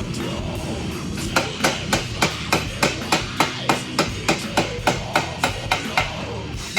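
Hand hammer striking a hot forged iron bar to bend it on a jig: a steady run of ringing metal blows, about three a second, starting about a second in.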